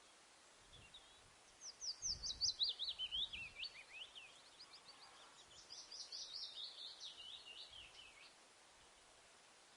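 A bird singing two phrases of quick chirps, each note sliding steeply downward. The first phrase starts about a second and a half in and the second about five seconds in, over a faint steady hiss.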